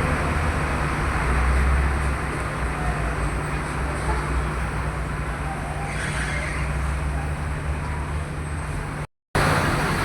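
Steady low engine rumble with traffic noise from idling and passing vehicles. It breaks off for a moment near the end.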